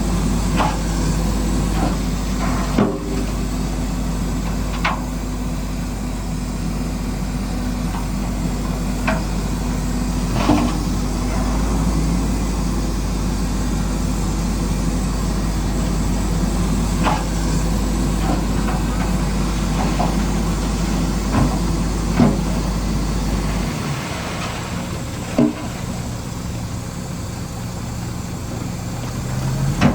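Heavy machinery's engine running steadily, with scattered sharp knocks and clanks. The deepest part of the rumble drops away about three-quarters of the way through.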